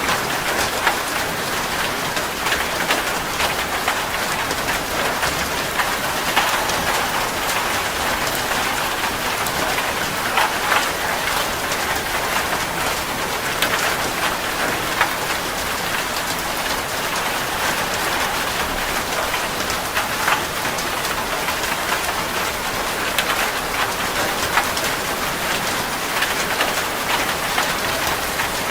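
Heavy rain drumming on a metal roof: a steady hiss with many sharp individual drop hits.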